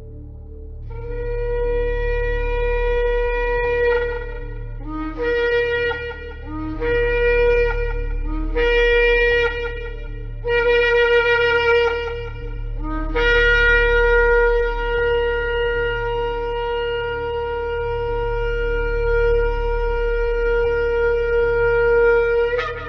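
Shofar (ram's-horn trumpet) being blown. One long blast, then four shorter blasts, then a very long held blast of about ten seconds that ends with a sharp upward flick in pitch. A steady low drone sits underneath.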